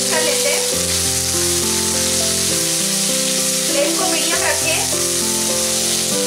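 Green peas sizzling in hot oil in a kadhai while a wooden spatula stirs them, a steady frying hiss. Background music of slow held notes plays underneath.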